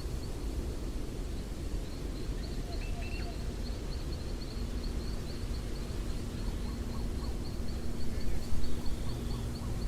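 Outdoor nature ambience: a steady low rumble with a faint high-pitched chirping that repeats about three times a second, a brief higher chirp about three seconds in, and a few louder bumps near the end.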